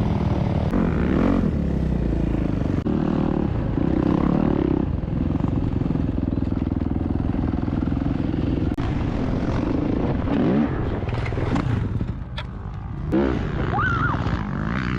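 Dirt bike engines running and revving, with the engine sound changing abruptly a few times and dropping off briefly about twelve seconds in.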